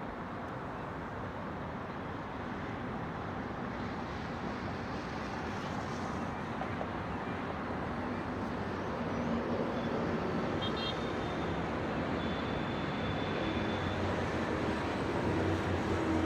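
City traffic noise: a steady wash of cars and engines that slowly grows louder. A faint high tone comes and goes a little past the middle.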